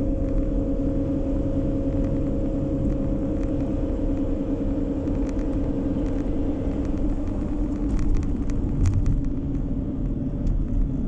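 A car driving along a road, heard from inside the cabin: steady tyre and road rumble with a constant engine and drivetrain hum that eases off after about seven seconds, and a few light clicks near the end.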